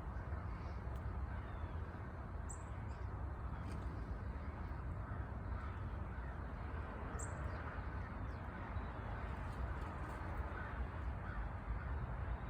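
Birds calling over a steady low background rush, with two short high chirps a few seconds apart.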